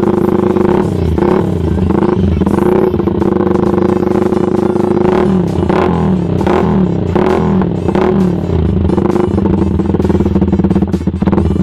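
Yamaha Vixion's 150 cc single-cylinder four-stroke engine running through an aftermarket racing exhaust, idling with repeated quick throttle blips that rise and fall in pitch, several in a row about a second in and another run of them from about five to nine seconds in.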